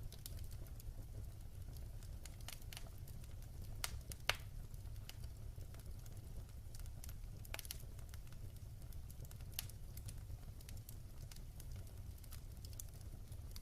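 Wood fire crackling in a fireplace: scattered sharp pops and snaps over a steady low rumble, the loudest pop about four seconds in.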